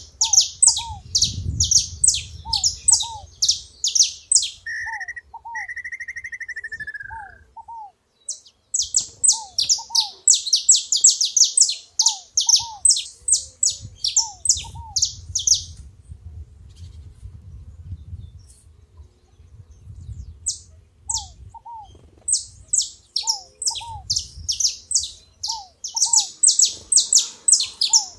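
Saffron finch singing: rapid runs of high, sharp chirps, broken by pauses of a few seconds. Short, lower call notes repeat throughout, and a whistled, slightly falling note sounds briefly around five to seven seconds in.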